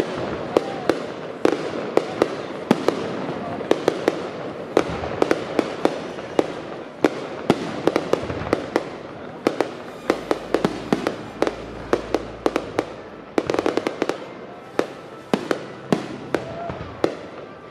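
Aerial firework shells bursting overhead: many sharp bangs in quick, irregular succession. The bangs ease off about ten seconds in, then a dense cluster follows.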